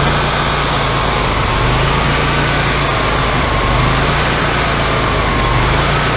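Wood-Mizer LT40 hydraulic sawmill's engine running steadily, with a high tone that slowly wavers up and down over it.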